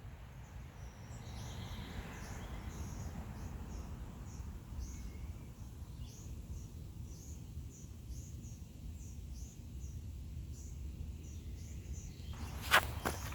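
Outdoor ambience: a steady low rumble under a small high chirp that repeats about twice a second. A few sharp clicks come near the end, the first the loudest.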